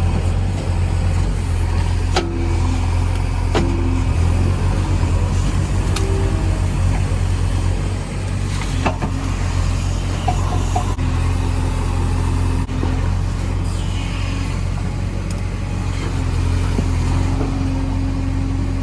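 Diesel engine of heavy earthmoving machinery running steadily under load, with a higher whine that comes and goes several times and occasional sharp metallic knocks.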